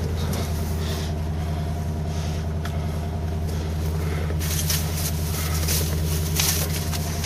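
1979 Chevrolet Caprice's engine idling steadily after a cold start from two years of sitting, with a few brief rustles over it.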